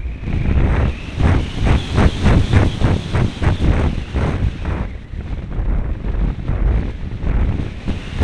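Wind rushing and buffeting over the on-board camera microphone of an RC airplane in flight, pulsing rapidly several times a second. It eases a little about five seconds in, then picks up again near the end.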